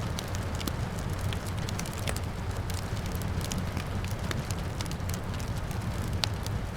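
Wood fire crackling, with irregular sharp pops and one louder snap about six seconds in, over a steady low rumble of the fire and a soft hiss of rain.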